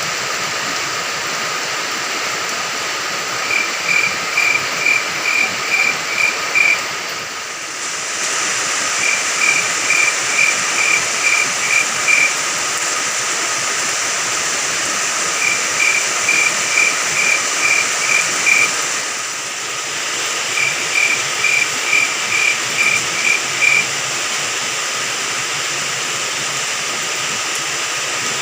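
Steady rain falling, with a cricket chirping over it in four runs of about eight evenly spaced chirps, roughly two to three a second.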